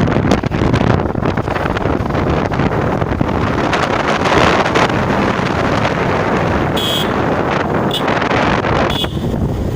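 Wind buffeting the microphone on a moving motorbike, a steady loud rush of wind and road noise. Three short high tones sound near the end.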